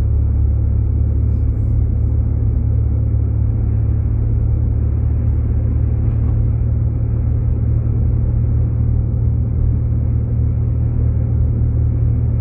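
Steady low rumble of road and engine noise inside a Jeep Grand Cherokee's cabin while driving on snowy roads.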